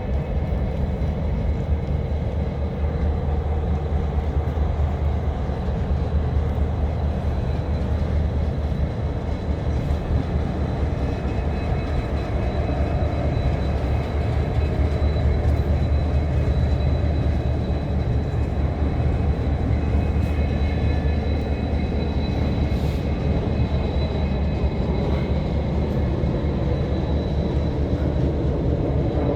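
Diesel-hauled freight train rolling past: the engines of an EMD SD70MAC and an SD40-3 locomotive and the wheels of the wagons make a loud, steady rumble, with a thin high steady tone over it.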